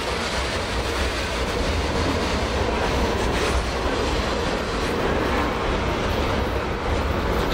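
Freight train passing close by: loaded double-stack container cars rolling on steel rails, with a strong, steady low rumble and wheel noise and a diesel locomotive moving alongside.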